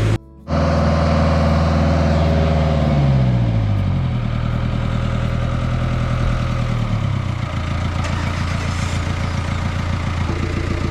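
Boat lift engine running, with a brief cut-out right at the start. Its engine speed falls over a couple of seconds, drops again a bit later, then holds steady.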